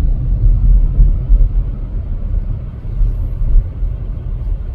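Car driving along a city street: a steady low rumble of engine and road noise.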